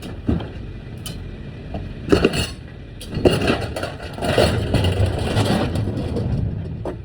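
A truck's steady low engine and road rumble, with scattered clicks and rattling noises over it.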